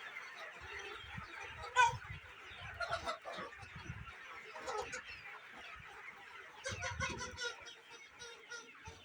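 A flock of domestic chickens clucking and calling in many short overlapping calls, with one sharper, louder call about two seconds in.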